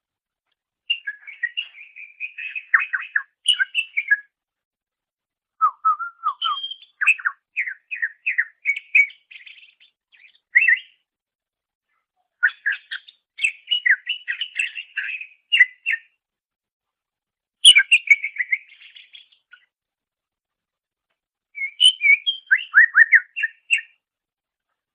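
Cucak ijo (green leafbird) singing: five phrases of quick, varied chirps and whistles, each a few seconds long, with short pauses between.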